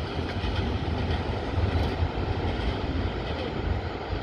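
Passenger train approaching over a steel truss railway bridge, still some way off: a steady low rumble with rail noise.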